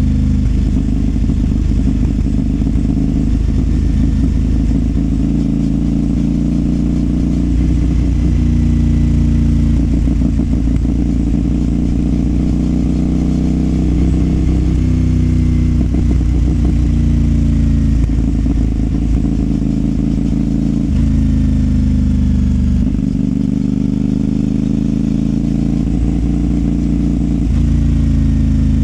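CFMOTO 450SR's parallel-twin engine and exhaust under way. The engine note repeatedly climbs and drops with the throttle, with several abrupt steps in pitch from gear changes.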